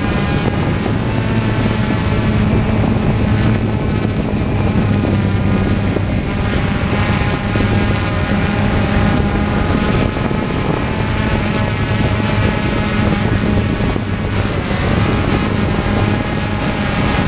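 Steady droning of an aircraft's propellers and motor, heard from on board, with a strong low hum and higher tones that shift in pitch briefly near the end.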